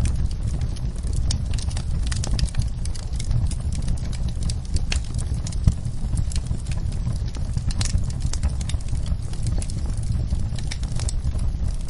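Wood fire in a fireplace crackling: irregular snaps and pops over a steady low rumble of the flames, with one louder pop about halfway through.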